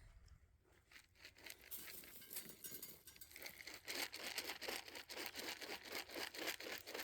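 Footsteps crunching and rustling on wet ground, starting faint about a second in and growing louder and denser after about three seconds.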